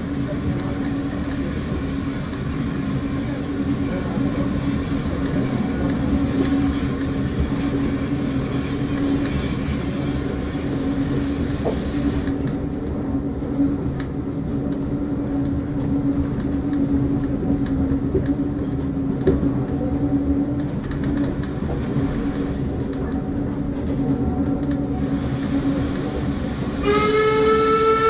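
Heritage train running, heard from inside a passenger carriage: a steady rumble of wheels on the track with a constant hum. About a second before the end, the train sounds a long warning call on one steady note that rises slightly at the start.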